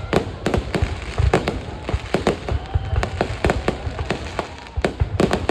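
Aerial fireworks bursting in quick, irregular succession, several sharp bangs a second over a continuous low rumble, easing briefly near the end before a fresh volley.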